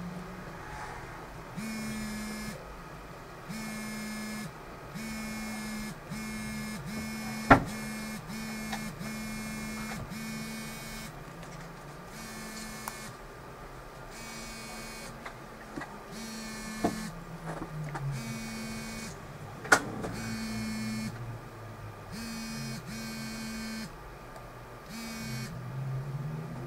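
An electric buzz that switches on and off in short spells of about half a second to a second, with two sharp clicks along the way.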